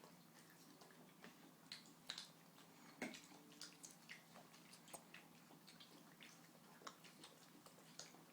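Faint, irregular little clicks and mouth smacks, a few each second, from a baby self-feeding on chicken korma with her hands.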